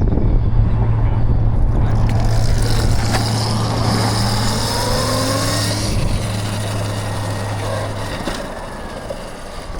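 A motor vehicle passing on a road: tyre hiss swells and fades through the middle with sliding engine tones, over a steady low hum that stops near the end.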